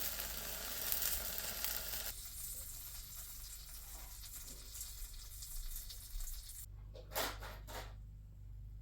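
Grilled ham and cheese sandwich sizzling in a frying pan. The sizzle cuts off about two seconds in, leaving faint handling noises and a couple of soft knocks near the end.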